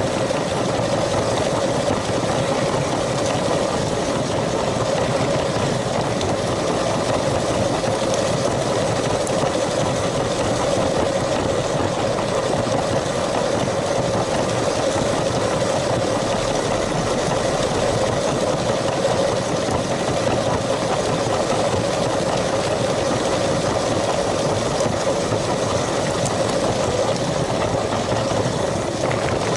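LEGO train's small electric motor and gearing running steadily with a constant whine, its wheels rolling on plastic track.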